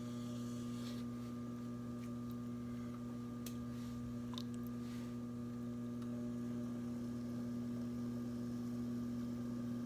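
Steady electric hum of a potter's wheel motor spinning, with a few faint ticks about midway.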